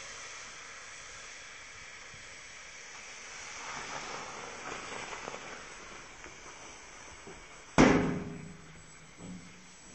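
Wood fire burning in a fireplace stove: a steady hiss with a spell of small crackles, then a single loud bang about eight seconds in that rings briefly and dies away.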